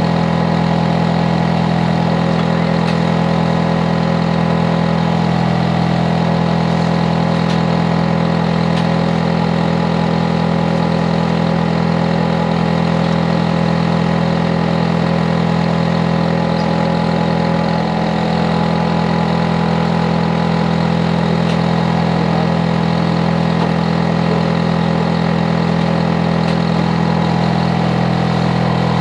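Hitachi air conditioner outdoor unit running loudly and steadily: a constant low hum with several steady overlapping tones and a fainter higher whine above it.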